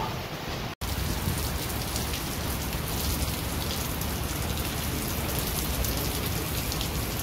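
Steady rain falling, a dense patter of drops, cutting in after a brief gap about a second in.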